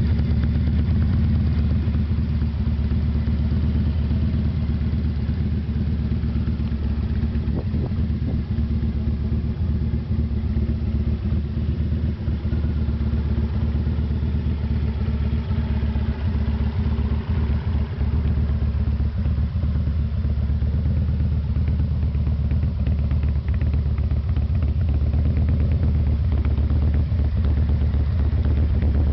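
2004 Big Dog Bulldog custom chopper's V-twin engine idling steadily, with an even, deep exhaust pulse.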